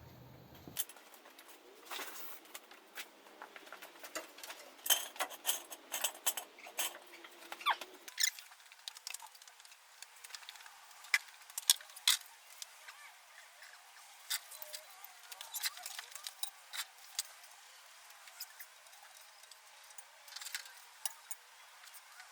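Irregular metallic clicks and clinks of hand tools and jack work on a car, sharp taps scattered through with busier clusters about four to eight seconds in and again near twelve seconds.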